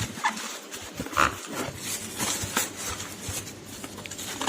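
Packaging being handled while an espresso machine is unboxed: foam packing and cardboard rubbing and scraping in irregular short bursts.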